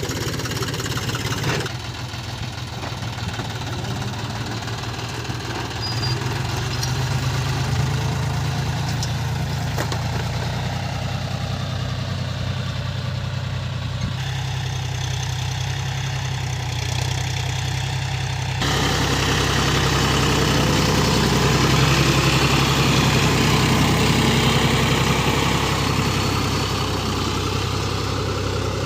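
John Deere 5050D tractor's three-cylinder diesel engine running steadily. Its sound shifts abruptly a few times and is louder and fuller from about two-thirds through.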